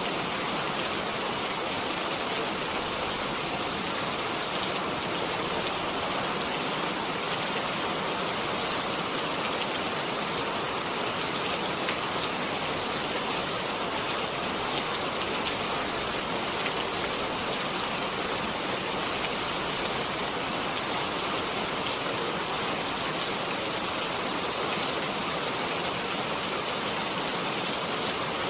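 Steady rain falling, a constant hiss speckled with the ticks of single drops.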